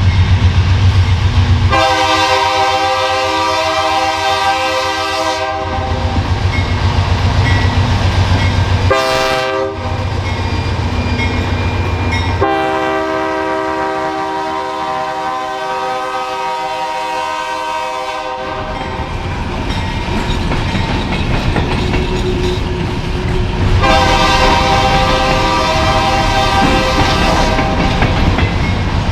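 GE AC4400 diesel locomotive sounding its horn in four blasts, three long and one short, over the steady rumble of its engine and the passing train.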